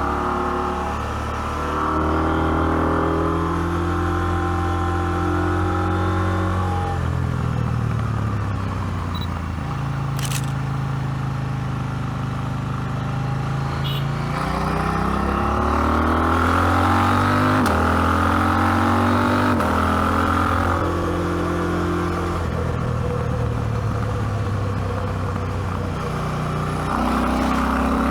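KTM 790 Adventure's parallel-twin engine and exhaust pulling the bike up a mountain pass, the revs rising and falling several times as it accelerates and is shifted through the gears, with a lower, steadier stretch in the middle and a jump in level near the end.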